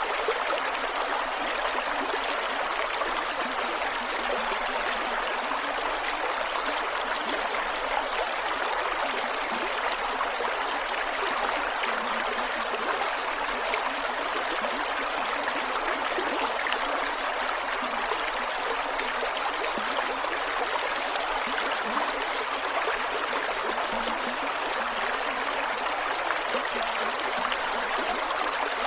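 A shallow creek flowing over rocks: a steady rush of water with small gurgles and trickles.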